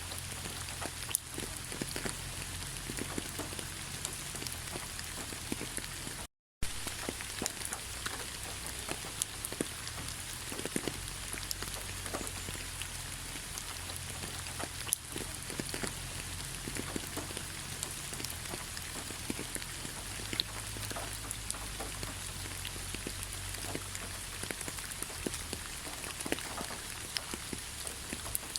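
Steady rain falling, with many separate drops landing close by as sharp ticks over an even hiss and a low rumble underneath. The sound cuts out completely for a split second about six seconds in.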